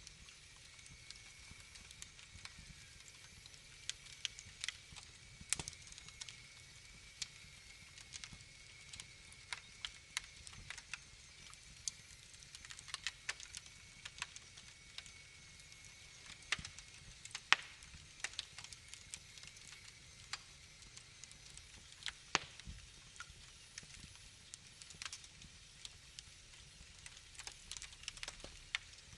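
Wood fire in a fireplace crackling: irregular sharp pops and snaps, some much louder than the rest, over a faint low hiss.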